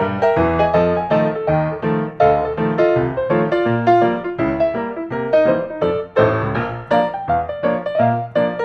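Background piano music, a bouncy run of notes played several times a second.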